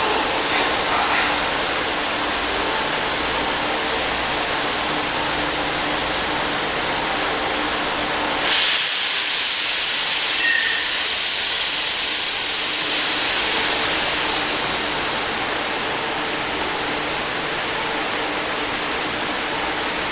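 Kyoto subway 50 series train noise: a steady rail rumble and hiss. About eight seconds in, a sudden loud hiss breaks in and fades away over the next several seconds.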